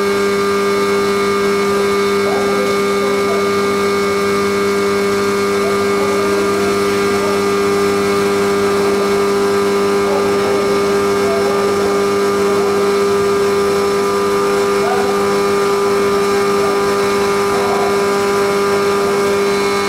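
Haas CNC milling machine running steadily, a constant hum and whine at several fixed pitches.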